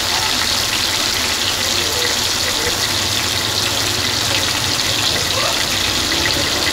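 Beef mince chapli kababs sizzling in oil on a flat tawa griddle: a steady, even frying hiss.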